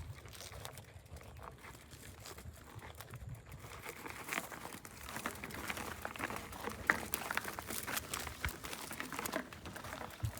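Crunching and crackling of dry leaves and gravel on a dirt trail, with a low rumble underneath; the crackles grow denser and louder from about four seconds in.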